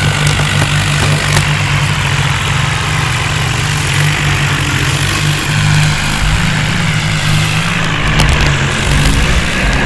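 Tractor diesel engine running steadily with a low, even drone; its note shifts slightly about six seconds in.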